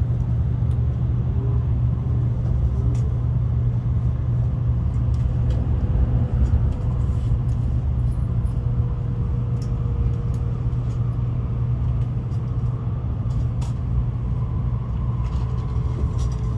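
Steady low rumble inside a moving Shinkansen bullet train's cabin, with a faint tone that slowly falls in pitch.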